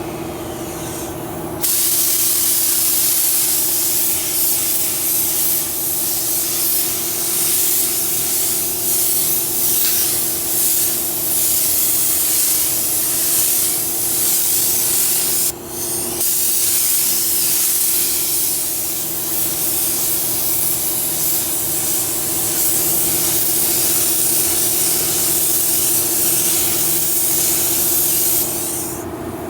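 Compressed-air gun hissing in two long bursts, with a brief break about halfway through, over a steady low hum.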